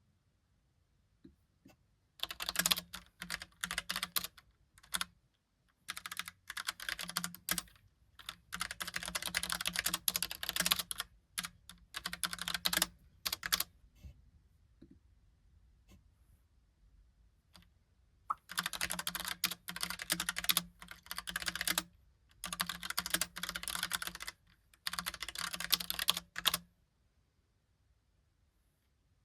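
Logitech POP Keys mechanical keyboard being typed on: fast runs of clacking keystrokes in several bursts, with short pauses between them and a longer pause about midway.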